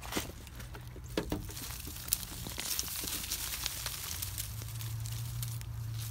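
Hands working in loose garden soil and potato vines in a raised bed: rustling and scraping with scattered small clicks and knocks. A low steady hum underneath grows louder about four seconds in.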